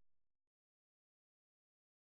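Near silence: a gap between sound effects, with only the faint tail of the previous one dying away at the start.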